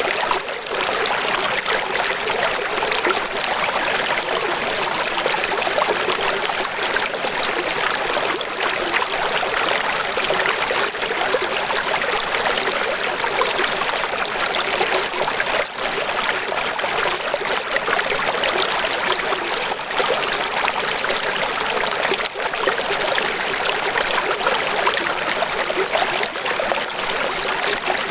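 Steady running water, an even, unbroken rush with little low rumble.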